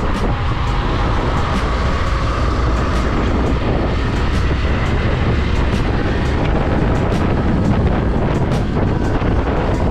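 Motorcycle riding at a steady speed: the engine and road noise run evenly, with wind rushing over the microphone.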